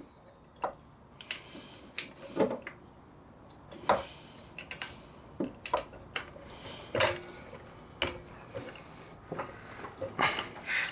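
Scattered, irregular metallic knocks and clanks from work on a Jeep XJ door hinge, as a hinge pin is forced into its bushing; a couple of the knocks ring briefly.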